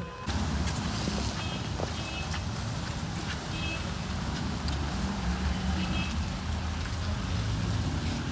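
Street ambience: a steady low rumble of road traffic with a hiss over it and a few faint clicks.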